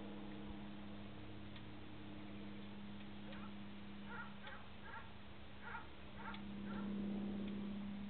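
A small bird's short chirps, about ten in a quick run in the middle, with a few faint ticks, over a steady low hum that grows louder near the end.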